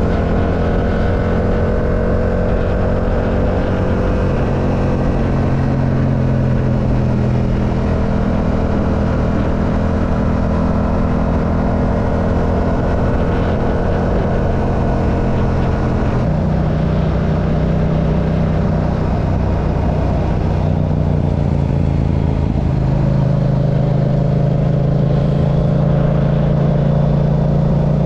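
Yamaha R7's 689 cc parallel-twin engine running steadily under way, with wind and road noise. The engine note shifts to a new pitch twice, about 16 and 23 seconds in.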